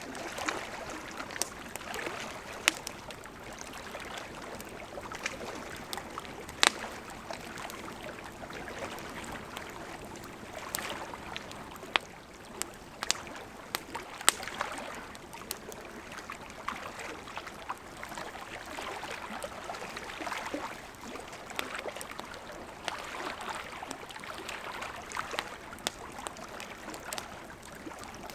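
Campfire crackling with irregular sharp pops over the steady rush of a gently flowing river.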